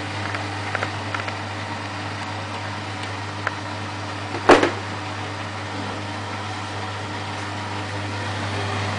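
Laundry appliance running with a steady low hum, a few light clicks early on and one loud knock about four and a half seconds in.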